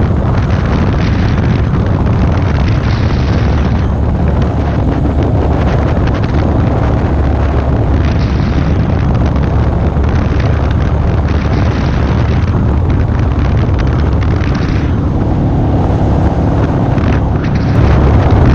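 Wind buffeting the microphone of a motorcycle-mounted camera at road speed, with the motorcycle's engine running underneath.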